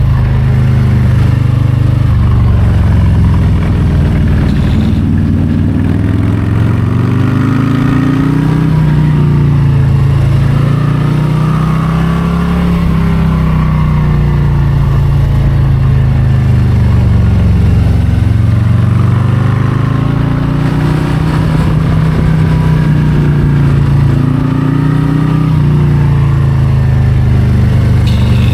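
2022 Harley-Davidson Low Rider ST's Milwaukee-Eight 117 V-twin running on the move, its revs rising and falling every few seconds as the throttle rolls on and off through a run of curves.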